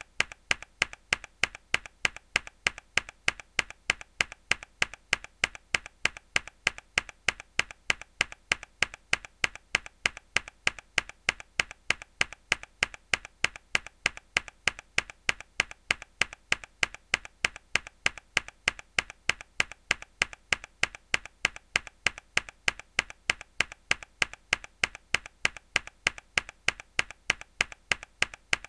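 A mechanical keyboard key pressed hard, repeated in an even loop of sharp clicks, about three a second.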